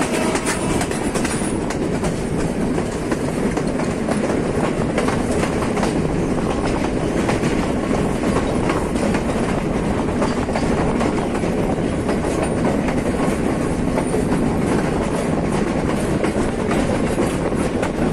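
Passenger train carriage running along the track, heard from its open doorway: a steady rumble with a quick clickety-clack of the wheels over the rails.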